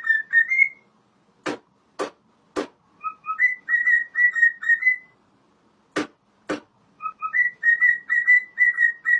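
A short whistled phrase, repeated three times: two quick notes, then a run of about six even notes at one pitch. Sharp clicks fall in the gaps between the phrases.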